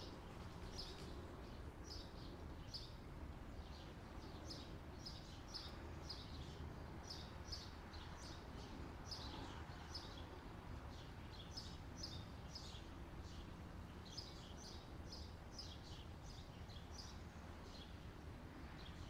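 Faint birdsong: many short, high chirps in quick succession, over a steady low background hiss.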